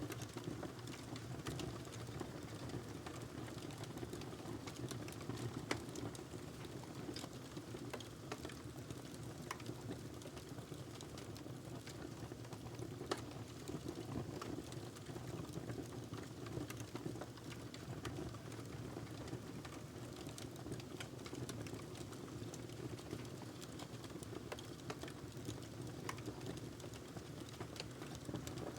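Wood fire burning in a fireplace: a steady low hiss and rumble of flames with irregular sharp crackles and pops from the burning log, one louder pop about thirteen seconds in.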